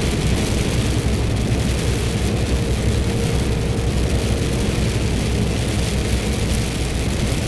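Lorry's diesel engine running steadily at road speed, with a constant hiss of wet road and rain.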